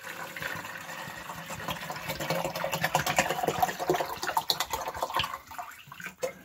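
Heavy-duty liquid drain opener being poured from its bottle into a 16-ounce container and down the sink drain, splashing, with many small clicks from the containers; it tails off near the end.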